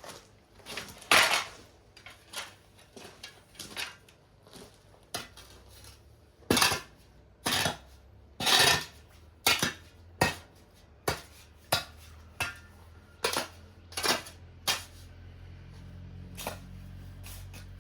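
Metal tool scraping and clinking in irregular strokes, roughly one a second, typical of a trowel working cement. A low steady hum comes in near the end.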